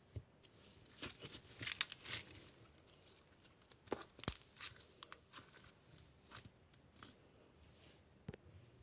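Irregular rustling and crinkling with scattered sharp clicks, busiest about a second or two in, the sharpest click a little after four seconds, then thinning out.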